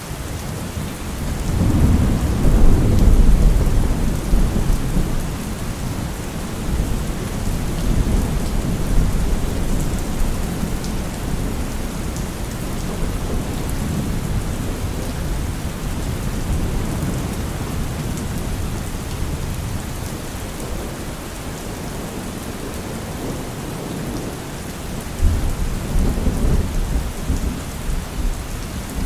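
Heavy rain falling steadily, with rolling thunder rumbling loudest about two to four seconds in and again near the end.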